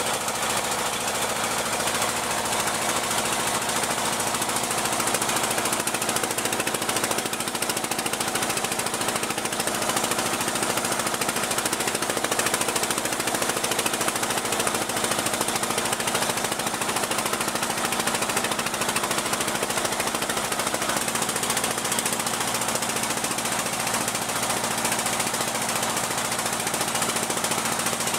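Boat engine running steadily with a rapid knocking beat; its note shifts slightly about two-thirds of the way in.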